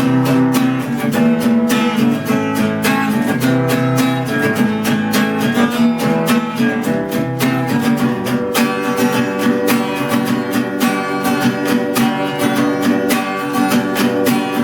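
Acoustic guitar strummed in a fast, even rhythm, with the chords changing about eight seconds in.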